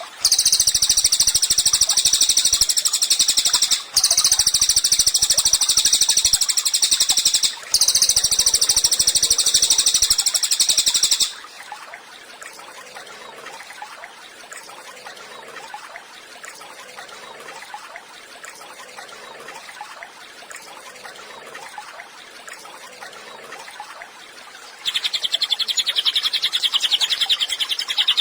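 Cililin songbird singing a loud, rapid, high-pitched chattering song in long unbroken runs, twice pausing for a moment. It stops about eleven seconds in, leaving only faint background for a long stretch, and starts again near the end.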